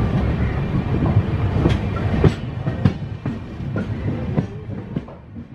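Express train passing at speed: a heavy rumble with sharp wheel knocks over the rail joints, fading away over the last couple of seconds.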